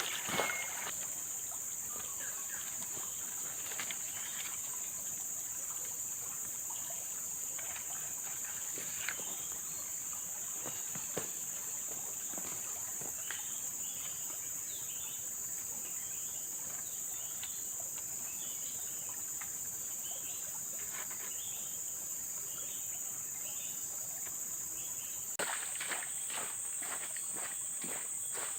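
Steady high-pitched chorus of tropical forest insects, crickets and cicadas, with scattered short chirps through the middle. A few faint knocks, and more rustling and handling noise near the end.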